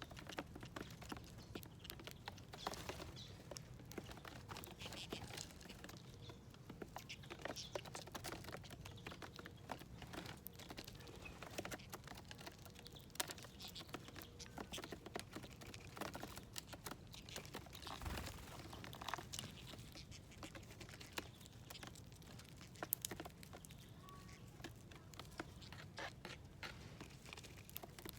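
Small birds pecking and picking at seeds and nuts on a feeding plate: irregular light taps and rustles.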